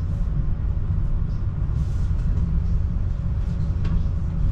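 Steady low rumble of a passenger train running at speed, heard from inside the carriage, with a few faint clicks.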